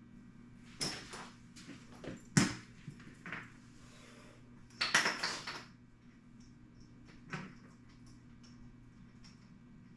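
Metal tools and garage door spring hardware being handled: a handful of sharp metallic clanks and knocks, the loudest about two and a half seconds in, with a short rattling clatter about five seconds in.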